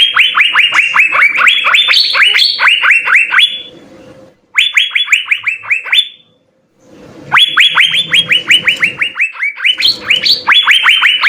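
Asian fairy-bluebird (cucak biru) singing hard: rapid runs of sharp whistled notes, each falling steeply in pitch, about six a second. The song comes in three bursts, with a brief pause about four seconds in and again about six seconds in.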